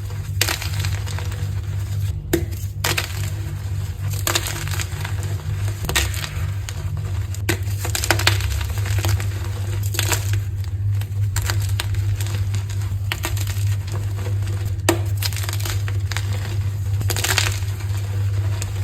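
Blocks of dyed gym chalk being crushed, a series of dry, crumbly crunches every second or two, over a steady low hum.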